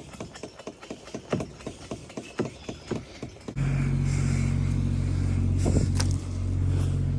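A series of sharp, irregular clicks and knocks, then about halfway through a small diesel engine, the mini truck's, is heard running steadily, starting in abruptly and much louder.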